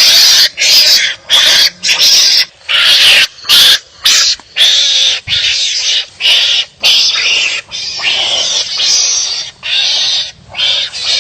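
Wild animals fighting and calling at each other in a fast, unbroken run of loud, harsh calls, about two a second.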